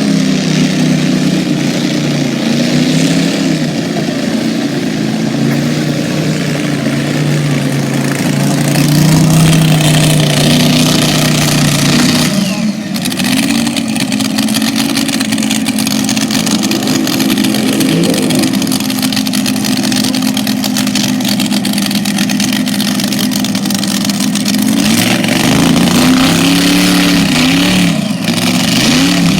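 Monster truck engine running loud, its pitch held fairly steady for long stretches, then rising and falling in quick revs near the end.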